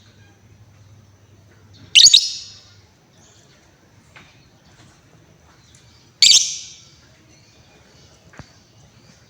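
Female lovebird giving two loud, shrill calls about four seconds apart, each lasting about half a second. Faint ticks are heard between them.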